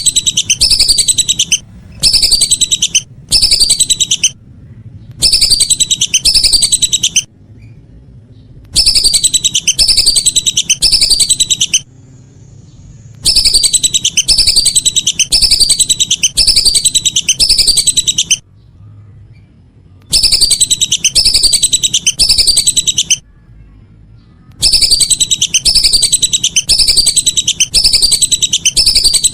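Lesser whistling ducks calling: phrases of rapid, high whistled notes, each note falling in pitch, repeated in bursts of one to three seconds with short pauses between them.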